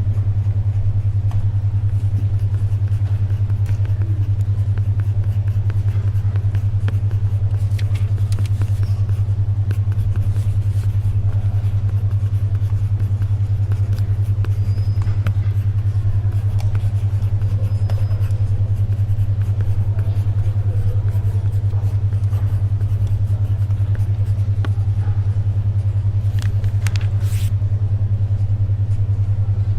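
A steady low hum, pulsing rapidly and evenly: a 10.2 Hz alpha-wave brainwave-entrainment tone. Underneath it is faint library ambience, with soft paper rustles and pencil-writing scratches now and then.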